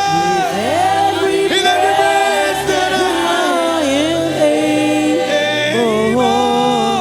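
Church choir and lead singer singing a slow gospel praise song in long held notes over a sustained musical accompaniment.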